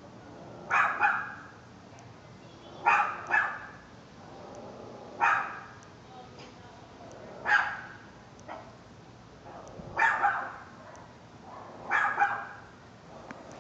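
A dog barking over and over, in single or double barks about every two seconds.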